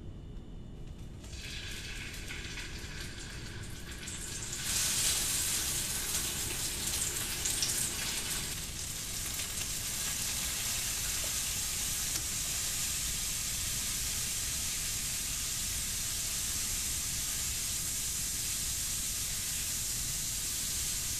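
Raw chicken breasts sizzling as they fry in a hot cast-iron skillet. The sizzle starts about a second in, gets louder about four or five seconds in as more pieces go into the pan, and then holds steady.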